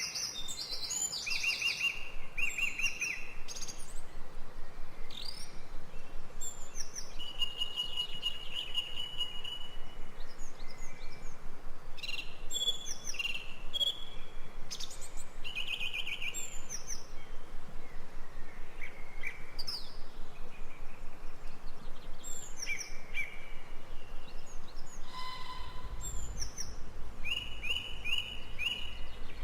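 Several birds calling at once: short repeated chirps, whistles and quick trills, overlapping throughout. A low rumble comes in near the end.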